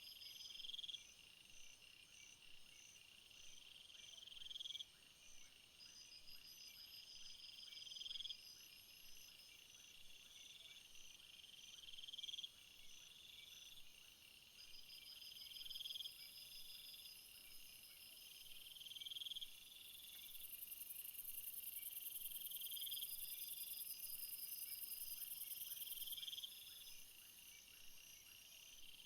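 Faint insect chorus of crickets and similar singers: steady high-pitched pulsed trills, with a rising buzzy call repeating about every four seconds. A very high shrill buzz swells in about two-thirds of the way through and stops abruptly a few seconds later.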